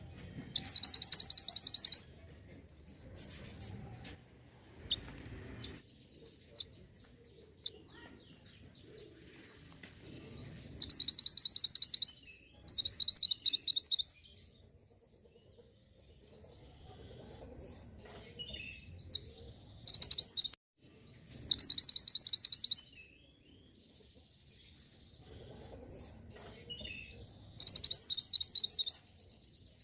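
Mantenan gunung songbird singing: five high, fast trilled phrases of one to two seconds each, with faint short calls between them, used as a lure song to prompt a caged bird to answer and sing.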